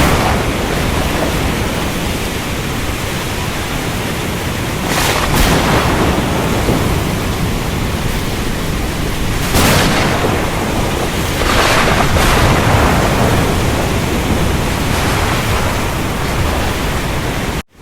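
Steady downpour of a thunderstorm with a continuous low thunder rumble, swelling louder several times. The sound cuts out for a split second near the end.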